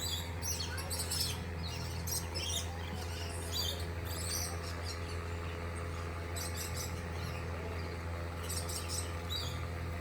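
A flock of small parrots chirping and calling, with many short, high chirps overlapping throughout, over a steady low hum.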